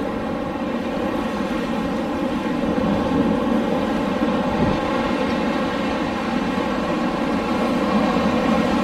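Wind blowing steadily: a continuous rushing noise that swells slightly about three seconds in.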